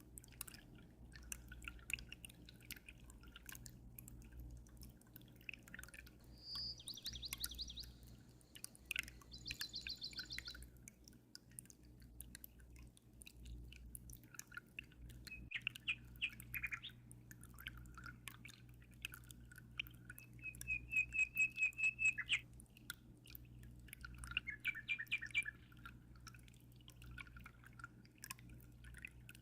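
Small songbirds chirping and trilling in several separate phrases, the loudest a rapid, evenly pulsed trill about two-thirds of the way through. Underneath are the small drips and splashes of aquarium water and a steady low hum.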